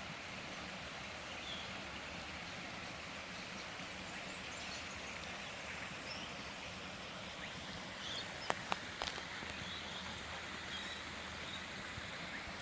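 Steady hiss of a creek's running water, with a few faint high chirps and a couple of sharp clicks about eight and a half seconds in.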